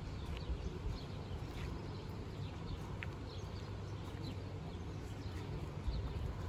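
Small birds chirping over and over in short, faint calls above a steady low rumble of outdoor background noise.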